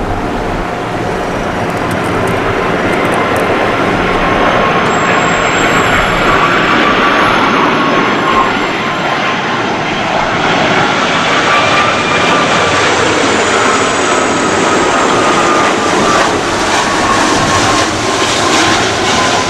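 Airbus A330-300 twin jet engines (Rolls-Royce Trent 700) running loud as the airliner passes close by: a dense steady rush with a faint whine that slowly wavers and sinks in pitch.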